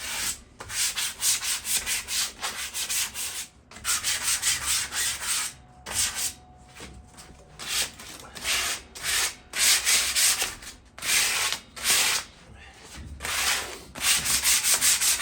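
Sandpaper rubbed by hand over a rusted metal patio chair, taking off surface rust in quick back-and-forth strokes, about three a second, with short pauses between runs.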